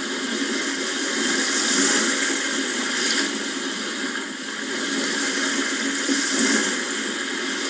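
Sea waves washing in: a steady rushing surf that swells and eases every few seconds.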